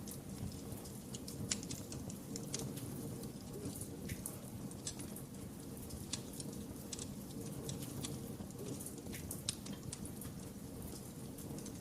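Wood fire crackling: irregular sharp snaps and pops, a few louder than the rest, over a steady low rumble of the burning fire.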